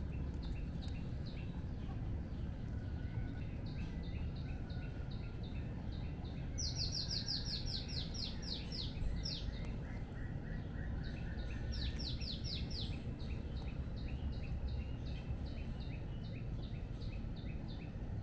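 Birds calling over a steady low background rumble: a continuing series of short high chirps, with a fast run of bright, falling notes about a third of the way in and a shorter run around two-thirds of the way through.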